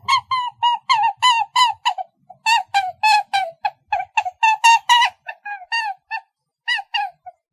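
A bird giving a rapid series of short, pitched calls, about four or five a second, with a short pause about two seconds in.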